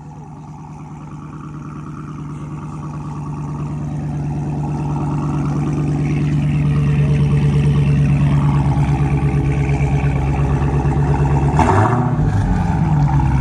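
Dodge Challenger engine running at a steady idle through its aftermarket cat-back exhaust, growing louder over the first several seconds, with a short blip of the throttle about twelve seconds in.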